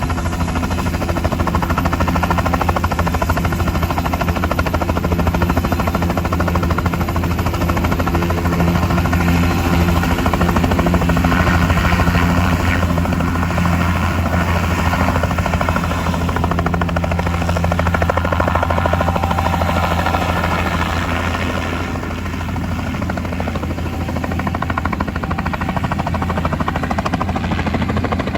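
New Jersey State Police helicopter running at close range: the rotor beats in a steady, fast low thump under the engine's continuous whine.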